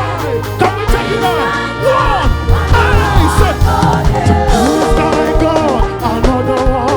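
Live gospel band music with a steady beat from the drums and bass under held keyboard chords, and a voice singing wordless runs that slide up and down.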